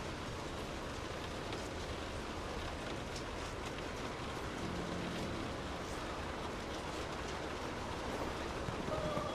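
Steady rain falling, an even hiss with scattered drop ticks on a surface. A faint short tone sounds briefly near the end.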